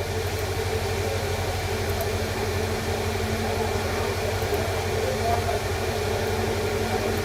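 A steady low mechanical hum with a few even tones under a faint hiss, unchanging throughout.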